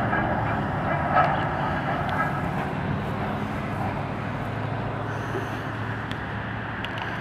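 Short passenger train rolling away on the rails, a steady rumble of wheels with the low hum of its GE 44-ton diesel locomotive, fading slowly, with a few light clicks.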